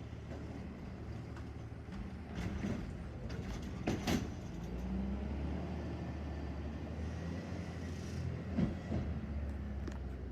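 Autocar Xpeditor garbage truck's diesel engine running, picking up in level about halfway through, with two sharp metallic clanks, one about four seconds in and one near the end.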